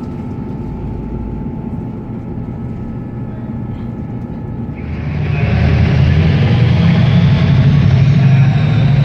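A train running: a steady hum with faint whining tones, then a much louder rumble and hiss swelling up about five seconds in and holding.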